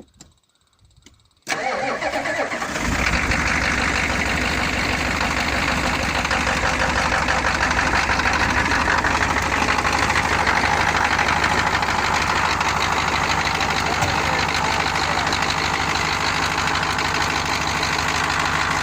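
1986 Ford F-250's 6.9 IDI V8 diesel starting cold after sitting for months: it comes in suddenly about a second and a half in and settles within a second or so into a steady idle.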